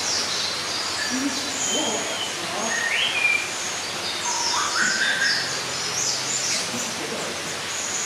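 Several birds chirping and calling over a steady background hiss, with many short high chirps throughout and a couple of rising whistled notes around three and five seconds in.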